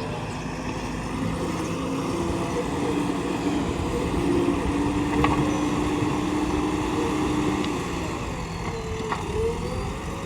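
JCB 3DX backhoe loader's diesel engine running steadily as it works, with a whining tone that holds for several seconds and then wavers up and down near the end. There are a couple of light clicks.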